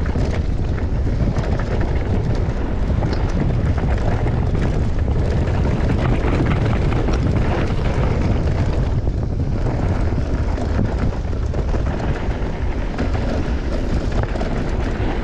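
Wind rushing over the microphone while a downhill mountain bike runs over a rough trail, with tyre noise and frequent small clicks and rattles.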